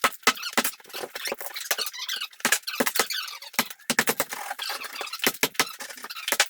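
Shower being demolished: a rapid, irregular run of sharp knocks and cracks, with high scraping between the strikes.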